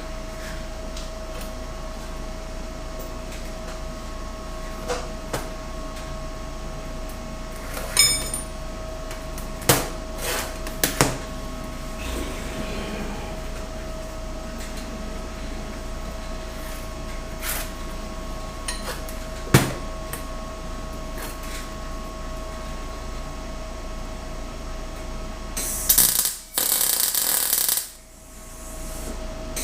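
Hand tools clinking and knocking on metal parts: a handful of separate sharp knocks over a steady hum, then a few seconds of loud, harsh noise near the end.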